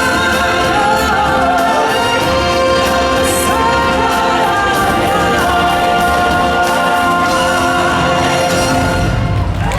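Stage show music with a choir of voices singing held notes over orchestral backing, ending near the end.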